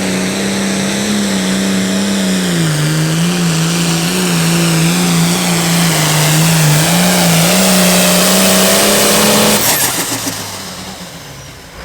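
Hot farm pulling tractor's diesel engine running flat out under load down the track, its pitch sagging as it lugs for a few seconds, then recovering. About ten seconds in the engine note cuts off abruptly and the sound falls away.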